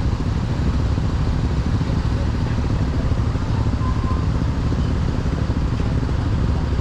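Honda SP125's single-cylinder four-stroke engine running steadily on the move, with the rush of street traffic around it.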